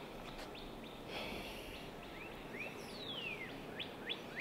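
Birds chirping in waterside woodland over a steady low background hiss: a scatter of short chirps, and one longer falling whistle about three seconds in.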